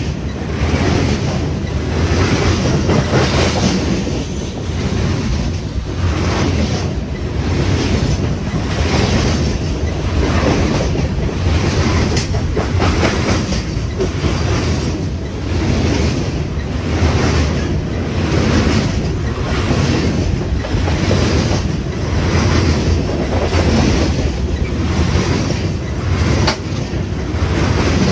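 A freight train of open-top coal cars passing close by at speed: steel wheels rumbling and clattering on the rails, with a steady clickety-clack rhythm about once a second.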